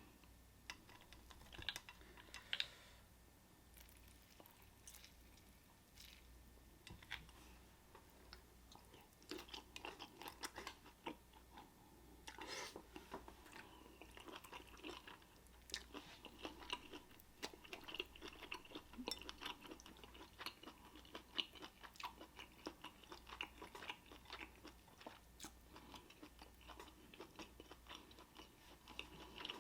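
Faint close-up chewing of Dungeness crab meat: many small clicks and crunches, sparse at first and busier from about nine seconds in.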